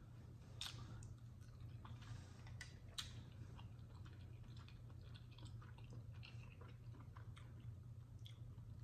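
Close-miked chewing of a mouthful of chitterlings (pork intestines) in hot sauce: quiet, irregular soft clicks of the mouth and jaw, with two sharper clicks in the first few seconds, over a steady low hum.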